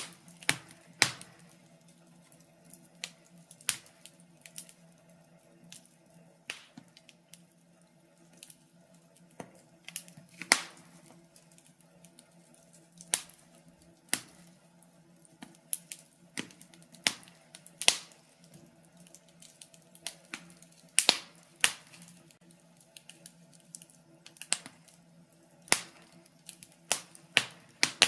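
Wood fire crackling in a fireplace: irregular sharp pops and snaps, a few of them louder, over a faint steady low hum.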